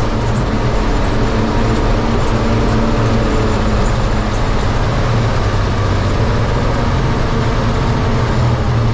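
A military 5-ton 6x6 dump truck's multifuel diesel engine running steadily at a constant pitch, with no change in speed.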